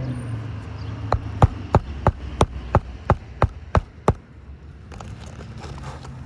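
Hammer driving roofing nails to fasten a new asphalt shingle: about ten sharp, even strikes, roughly three a second, stopping after about three seconds.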